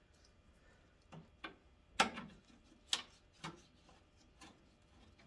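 Light, uneven clicks and taps of small screws and plastic fasteners being handled and set down, about six of them, the loudest about two seconds in.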